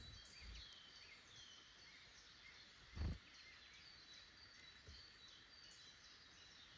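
Faint woodland birdsong: several small birds chirping and singing in short phrases. A single brief low thump comes about three seconds in.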